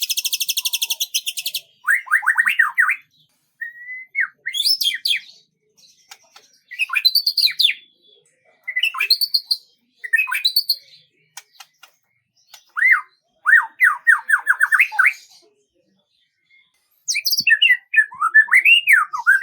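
A songbird singing in separate phrases with short silent gaps between them. It opens with a fast, high trill, then moves on to runs of quick down-slurred whistles and varied chirps.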